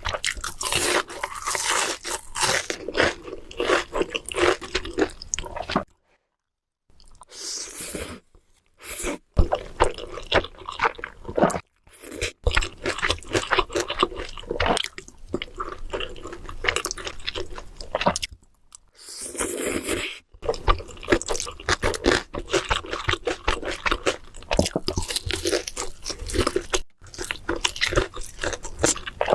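Close-miked eating: irregular crunching, biting and chewing of food, mukbang style. The sound breaks off abruptly to silence several times.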